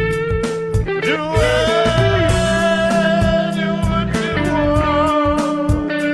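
Electric guitar music over a steady drum beat and bass, the guitar holding and bending long notes.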